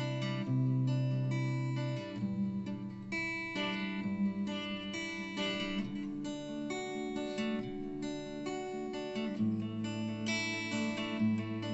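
Music: an acoustic guitar playing an instrumental introduction, its chords changing every second or two.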